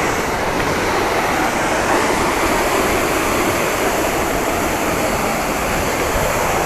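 Athirappilly Falls rushing: a loud, steady wash of falling water with no break or change.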